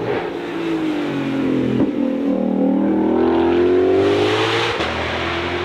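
Ford Mustang GTD's supercharged 5.2-litre V8 running hard. Its pitch dips, then climbs steadily for about three seconds as the car accelerates. There is a short sharp crack about two seconds in.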